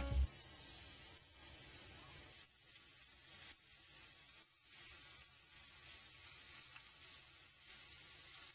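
Food sizzling in a hot frying pan, a steady hiss with a few faint pops.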